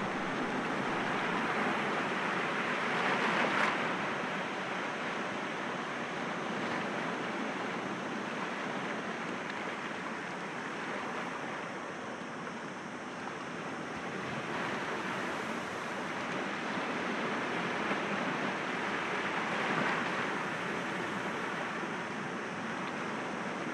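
Sea waves breaking gently against rocks, a steady wash of surf that swells louder a few seconds in and again near the end.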